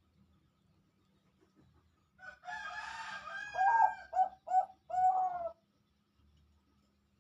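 Zebra dove (perkutut) singing one cooing song phrase about two seconds in: a drawn-out opening followed by a quick run of short notes and a longer closing note.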